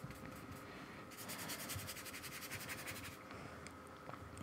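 Faint dry scratching of a paintbrush's bristles scrubbing gouache onto sketchbook paper in rapid back-and-forth strokes, busiest from about one to three seconds in.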